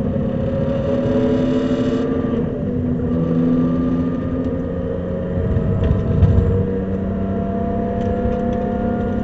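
Supercharged BMW E46 M3's straight-six engine pulling hard under acceleration, its pitch climbing, dropping once about three seconds in as on a gear change, then climbing slowly again. A loud low thump comes about six seconds in.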